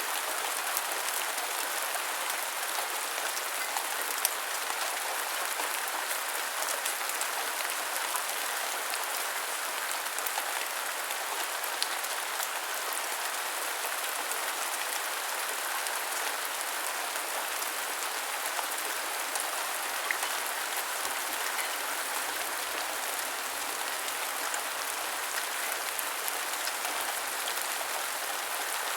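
Heavy rain falling steadily, a dense even hiss with occasional sharper drop ticks.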